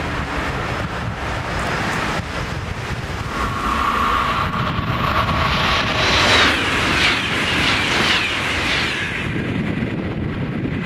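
High-speed electric train going past at speed. A rushing noise with a steady whine builds, is loudest about six seconds in, and then eases off.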